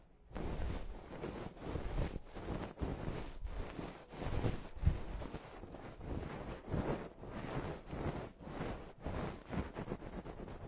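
Close-up rubbing and brushing against the microphone, as in ASMR ear cleaning: a rustling, whooshing noise in short strokes broken by brief gaps.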